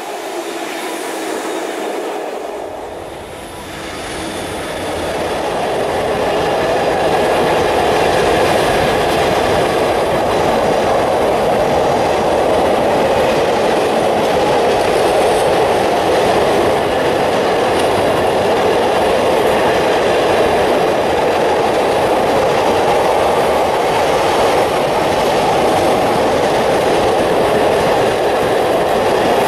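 A diesel-hauled intermodal freight train of container flat wagons passing close by. The locomotive goes by at the start; after a short dip about three seconds in, the wagons' running noise grows louder and stays steady.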